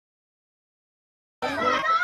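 Dead silence, then about one and a half seconds in, children's voices shouting start abruptly and loudly.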